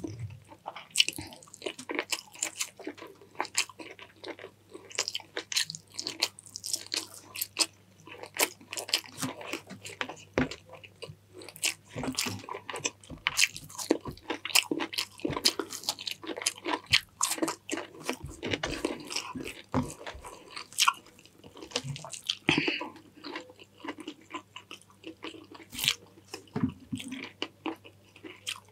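Close-miked mouth sounds of a person eating chicken stewed in coconut milk with rice: steady chewing with many short, wet smacks and clicks.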